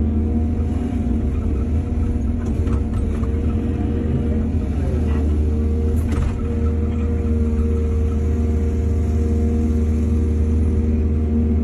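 Heavy diesel engine of an earthmoving machine running steadily with a deep hum, its pitch dipping briefly about five seconds in. A few light clicks, and a sharp metallic knock about six seconds in.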